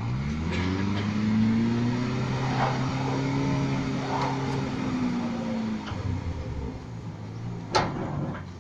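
An engine revs up, holds a steady speed for several seconds, then drops back down; a sharp knock comes near the end.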